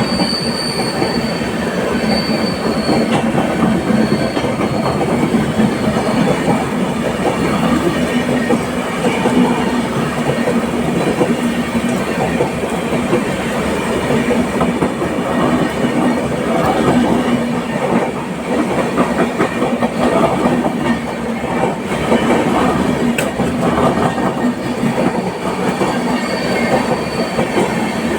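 LHB passenger coach running at speed: continuous rumble and clatter of wheels on the rails, with a faint high wheel squeal near the start and again near the end.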